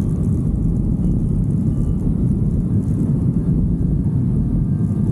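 Steady low rumble of a motorcycle under way: wind buffeting the microphone over the engine and road noise.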